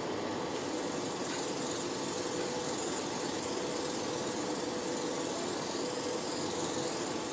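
Spray mist gun of a hydrodermabrasion facial machine running: a steady hiss of spray over a steady machine hum.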